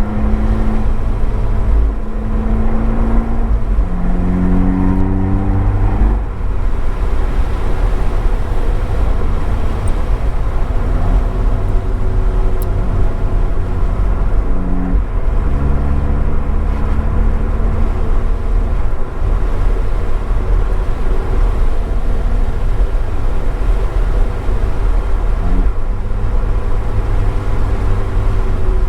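Abarth 595's turbocharged 1.4-litre four-cylinder engine through an Akrapovič exhaust, heard from a microphone in the boot, pulling up through the gears with the pitch climbing and dropping back at each upshift, then running steadier for a stretch. A heavy low rumble of road and wind noise runs under it.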